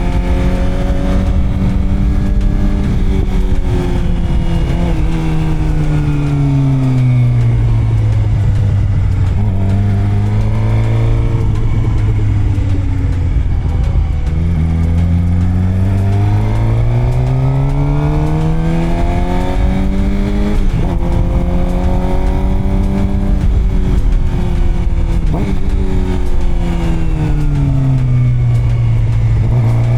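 Suzuki GSX-R600 sport bike's inline-four engine on the road, its pitch falling over the first several seconds, staying low, then rising again after about fifteen seconds, dropping briefly, and falling and rising once more near the end, as the bike slows and speeds up. Wind rushes steadily over the microphone throughout.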